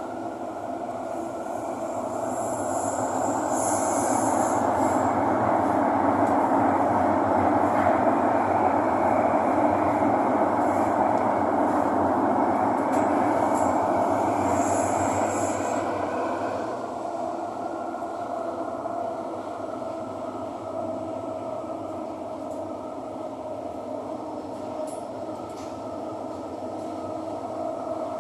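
Cabin noise of a Thomson-East Coast Line metro train (Alstom Metropolis T251) running between stations, a steady rumble and hum that grows louder as the train picks up speed and then eases off after about 16 seconds. Brief high-pitched tones come through twice, around four and fifteen seconds in.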